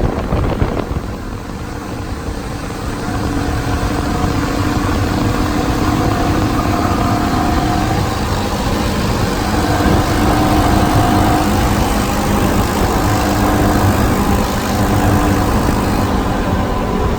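A vehicle engine running steadily with a low rumble, a little louder after the first few seconds.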